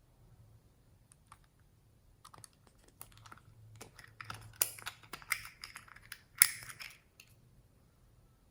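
Slime being worked by hand, giving a run of sticky clicks and crackling pops that grow denser and louder through the middle, with the loudest pop just before the end, then stop.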